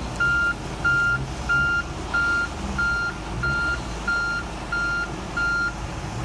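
Heavy vehicle's reversing alarm beeping steadily, about nine beeps roughly one and a half a second, stopping shortly before the end, with an engine running underneath.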